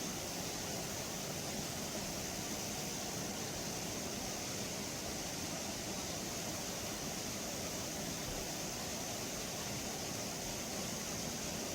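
Steady rushing of a mountain valley stream, an even unbroken hiss of flowing water.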